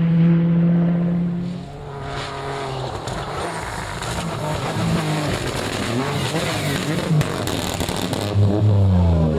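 Rally car engine at high revs. The note drops sharply about two seconds in, then the revs rise and fall repeatedly, and the engine is loudest again near the end.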